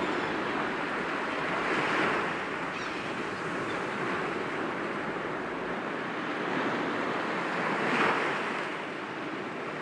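Sea waves breaking gently against rocks: a continuous wash of surf with two louder surges, one about two seconds in and one near the end.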